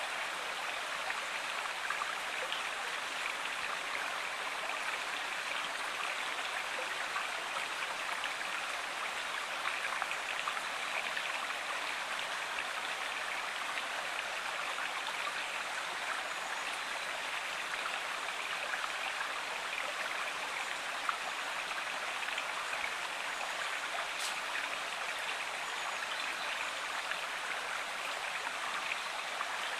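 Steady rushing and babbling of a flowing river or stream.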